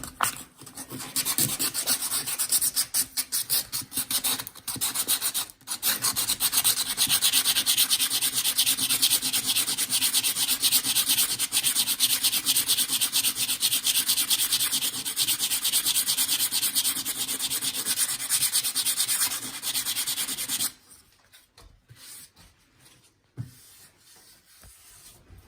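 Sandpaper rubbed by hand over a wooden stair, sanding flush the hardened filler in repaired screw holes, in rapid back-and-forth strokes. The sanding stops about 21 seconds in.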